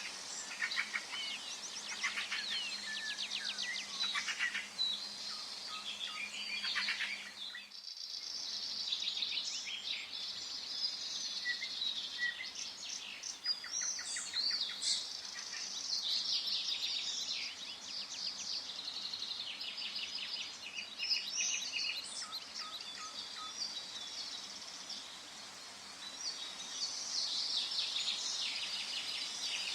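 Forest birdsong chorus: several birds chirping, trilling and whistling over each other without pause, with a momentary gap about eight seconds in.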